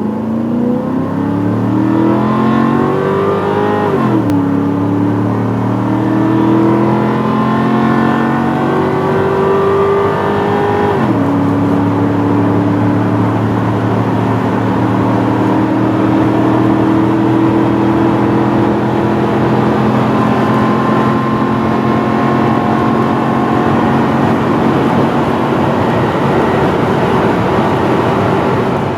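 Toyota/Lexus UZ-series V8 accelerating through the gears. The revs climb, drop quickly at an upshift about four seconds in, climb again to a second upshift at about eleven seconds, then rise slowly and steadily in the next gear.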